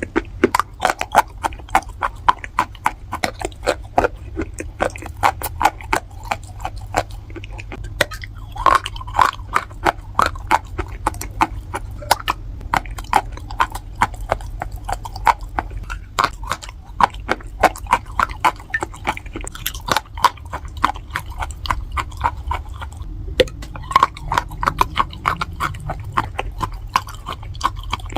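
Close-miked crunching as dry, baked edible clay from a clay pot is bitten and chewed, a dense run of sharp, irregular crackles and snaps with no let-up.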